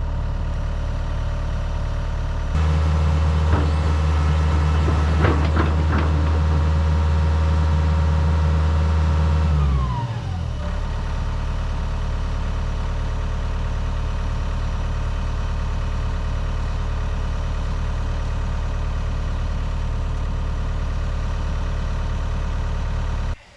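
Kubota SVL65 track loader's diesel engine idling, then throttled up about two and a half seconds in with a few knocks. It drops back to idle at about ten seconds and is shut off abruptly near the end.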